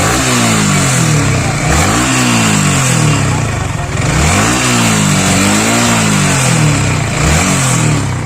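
Motorcycle engine revved in a series of blips, its pitch rising and falling several times. The owner says it makes an irritating 'chit-chit' noise, which friends take for tappet noise.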